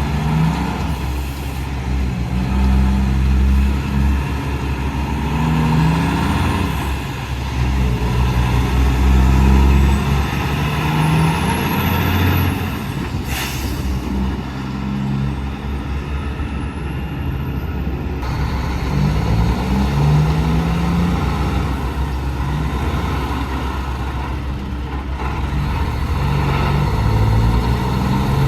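Heavy trucks running and passing, with deep diesel engine rumble throughout. There is one brief, sharp burst of noise about halfway through, and rising whines just before and after it.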